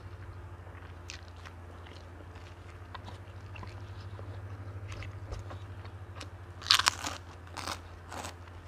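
Close-up eating sounds: a person chewing and biting crunchy food with soft clicks, then three loud crunches near the end.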